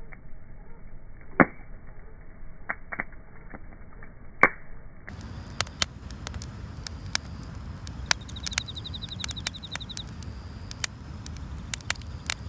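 Wood fire crackling, with scattered sharp pops. Two loud pops come in the first half, which sounds dull and muffled. After about five seconds the crackling turns brighter and denser, over a low rumble.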